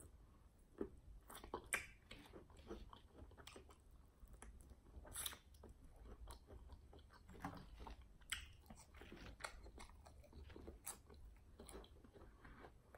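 Faint close-up chewing and biting of crispy fried chicken wings, with scattered crunches throughout.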